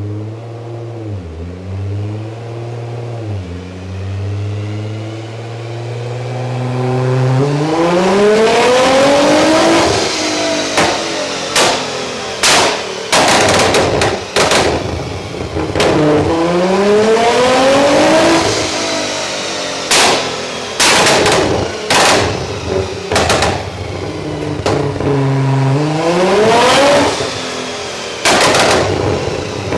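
Nissan GT-R engine idling with two quick blips, then revved hard three times, the pitch climbing steadily each time. Each rev is followed by a run of sharp bangs from the exhaust.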